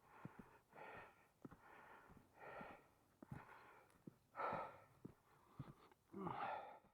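A person breathing hard and rhythmically close to the microphone, about one breath every second, with faint clicks between the breaths.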